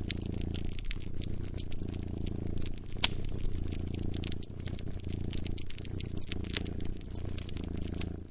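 A cat purring, a low rumble that swells and eases with each breath, over a wood fire crackling with frequent small pops and one louder snap about three seconds in.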